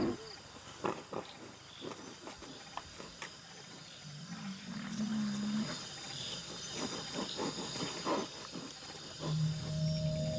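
A greater one-horned rhinoceros calling at night: one wavering, pitched call of about a second and a half, starting about four seconds in, over scattered soft clicks. Music begins near the end.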